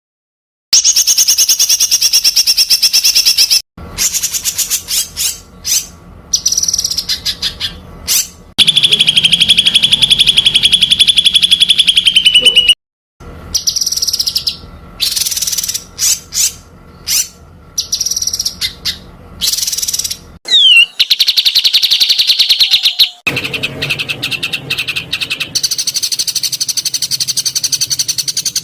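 Songbird song-training recording ('masteran') of rapid-fire 'tembakan rapat' song: dense trills of fast repeated sharp notes, high-pitched. The recordings are spliced together with abrupt cuts, and the longest unbroken trill runs from about 9 to 13 seconds in.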